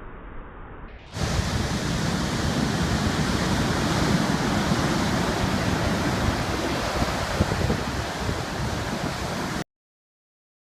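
Typhoon wind buffeting the microphone over the rush of heavy surf, a loud, unsteady roar that comes in suddenly about a second in after a quieter, muffled rush and cuts off abruptly near the end.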